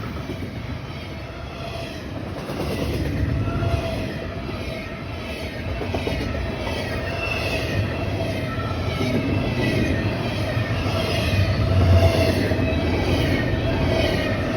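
Train rolling past: a steady rumble of the cars with wavering high-pitched squeals from the wheels, growing gradually louder toward the end.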